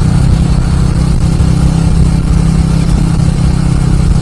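Motorcycle running at steady expressway cruising speed: a loud, steady engine drone with heavy wind noise on the rider's microphone.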